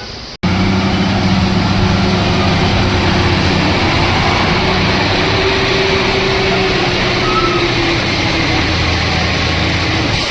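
Heavy truck engine running steadily, loud and close, with a deep even hum; it cuts in abruptly about half a second in.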